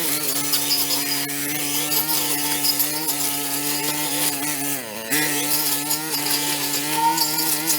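Small engine-driven power tool running steadily, its pitch dipping briefly about five seconds in and then recovering.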